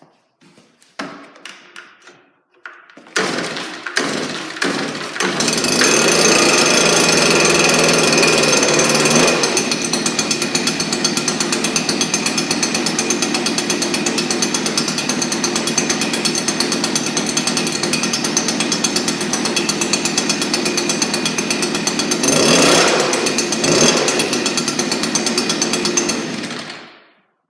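Stihl BR 200 backpack blower's small two-stroke engine cold-started: after a few short pulls it catches about three seconds in and stutters. It then runs steadily with a fast putter, rises briefly near the end and is shut off.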